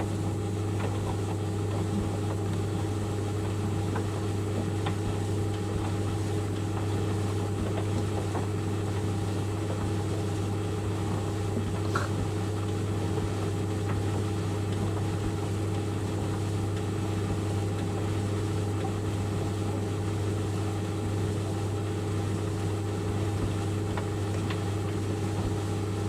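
White Knight 38A 3 kg compact tumble dryer running, a steady, even motor hum.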